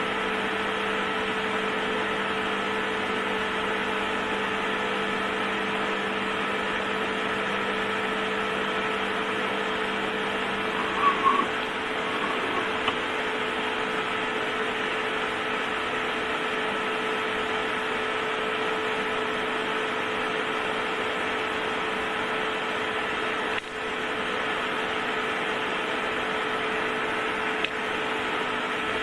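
Steady machine hum holding several fixed tones, with a few brief clicks about eleven seconds in.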